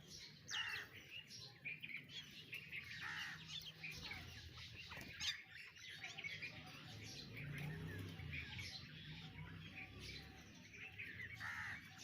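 Several birds chirping and calling in quick, overlapping short notes, with a single sharp click about five seconds in.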